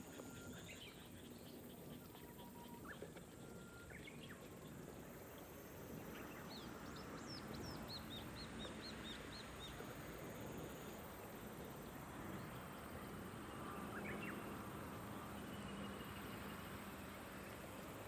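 Gentle rain falling steadily, with birds calling over it: a quick run of about a dozen high chirps from about six to ten seconds in, and a few scattered calls elsewhere.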